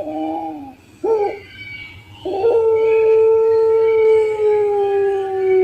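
Puter pelung dove cooing: two short bent coos, then from about two seconds in a long drawn-out coo, held steadily and sinking slowly in pitch.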